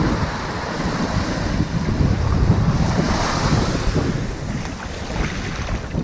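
Ocean waves breaking and washing up on a sandy beach: a steady low rumble of surf with a hiss of water that swells about halfway through and fades near the end.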